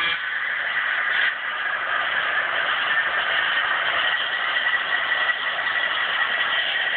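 HO-scale Broadway Limited Baldwin Centipede model diesel locomotive running on the track: a steady mechanical running noise with a thin, constant high whine.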